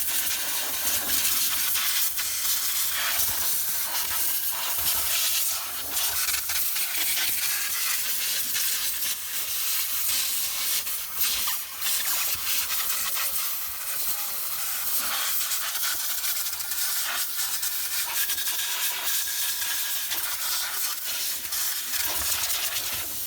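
Compressed air from a blow gun hissing, blasting sand and grit out from around the engine's heater plugs so they can be unscrewed cleanly; the blast wavers in strength, with a few short dips.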